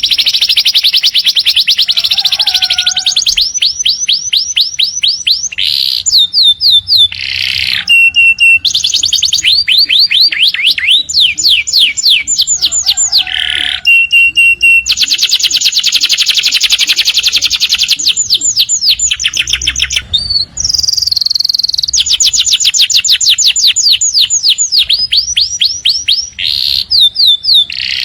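Domestic canary song: long, nearly unbroken runs of fast trills made of rapidly repeated high notes, with a few short steady whistles between them.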